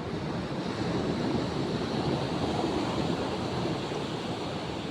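Rough sea surf washing against the shore, a steady rushing noise that swells slightly, with light wind on the microphone.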